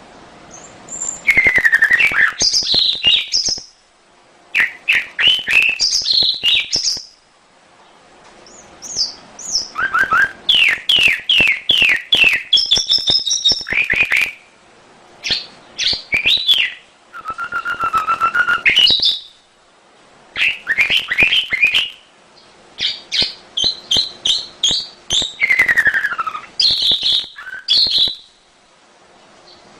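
Domestic canary singing in loud phrases of rapid repeated notes, trills and whistled glides, with brief pauses between phrases. This is a canary song of the kind played as a lure to set other canaries singing.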